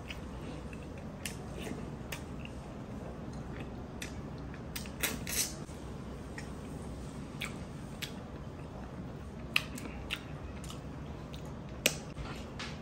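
Close-miked eating sounds: scattered short, wet clicks and smacks of chewing on vinegar-stewed tuna eyes. They come irregularly, about one a second, with a small cluster about five seconds in.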